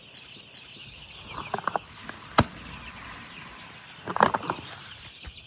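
A flock of chickens clucking and chattering, with a few louder clucks about a second and a half in and again near four seconds, and one sharp click in between.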